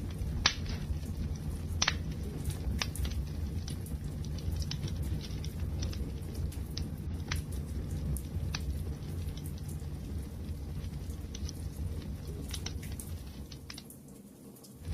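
Wood fire burning with a steady low rumble and scattered sharp crackles and pops of burning wood, two loud pops in the first two seconds. The sound fades down briefly just before the end, then comes back.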